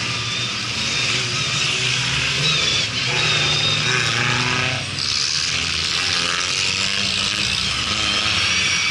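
Engines of several 4x4 off-road race cars running as they drive past together on a dirt track. Engine pitch rises a few times as cars rev and accelerate.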